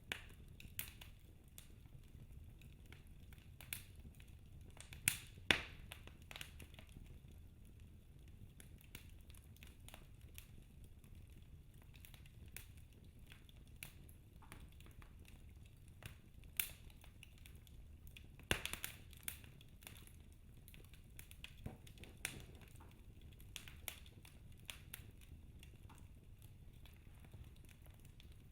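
Wood fire in a fireplace crackling: burning logs give off sparse, sharp pops at irregular intervals, with a few louder ones about five seconds in and again around eighteen seconds, over a low steady hum.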